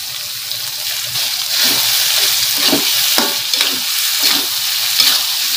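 Food sizzling in hot oil as a stir-fry is stirred, with several short scraping strokes through a steady hiss that grows louder about one and a half seconds in.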